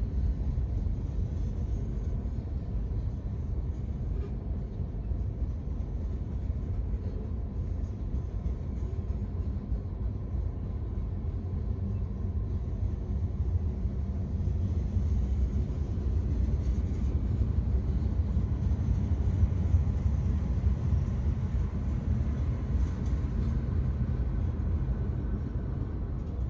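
A long freight train of boxcars, covered hoppers and tank cars rolling past, giving a steady low rumble of wheels on the rails.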